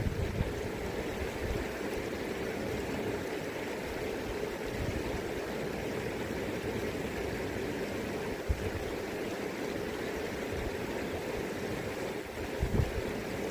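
River current flowing steadily over its bed, a continuous rushing of water. Brief low rumbles of wind buffet the microphone a little past the middle and near the end.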